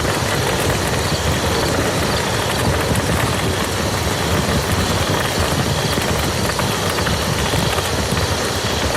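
Steady rain falling onto a muddy field: a dense, even patter of drops with a low rumble underneath.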